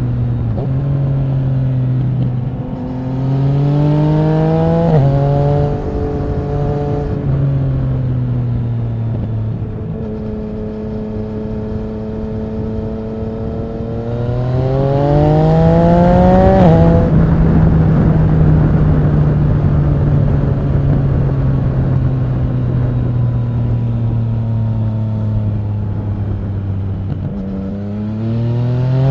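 Yamaha MT-09 SP inline three-cylinder engine through an Akrapovic racing exhaust under way: the pitch climbs under acceleration and drops sharply at an upshift about five seconds in and again around seventeen seconds, with long steadier stretches of cruising between, and it climbs again near the end. Wind rush rises with the speed.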